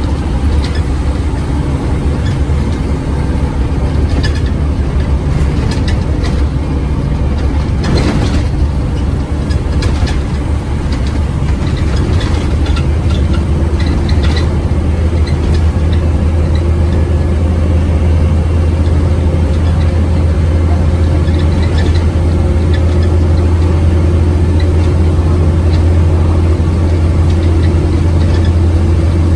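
Scania OmniCity bus engine running with a steady low drone, a brief clatter about eight seconds in and scattered rattles over the next few seconds; its note climbs slowly through the second half as the bus pulls.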